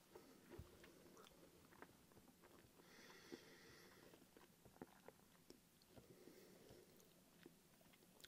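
Faint chewing of a mouthful of food, with scattered small clicks and a soft breath through the nose about three seconds in; otherwise near silence.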